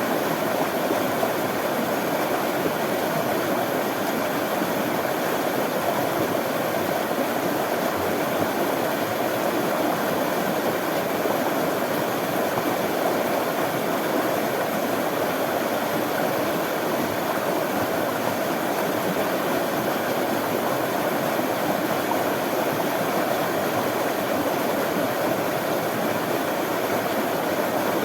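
Running water, a steady, even rush of a stream flowing.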